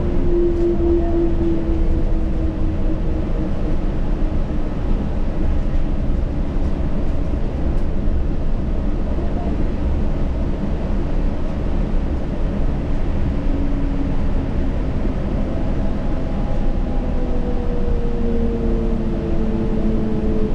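Yurikamome rubber-tyred automated guideway train running, a steady low rumble with a faint motor whine whose pitch shifts near the start and again in the last few seconds.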